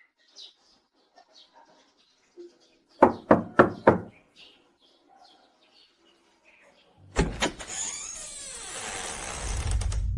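Four quick knocks on a door, about a quarter-second apart, with faint chirping before them. About seven seconds in, a loud rushing noise with a falling sweep begins and runs into low rumbling.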